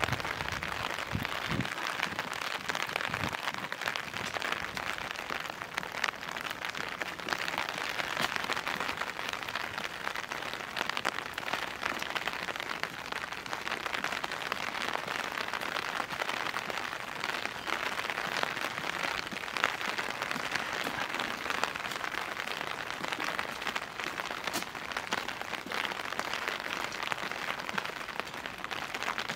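Steady rain falling, an even hiss dotted with the ticks of many individual drops.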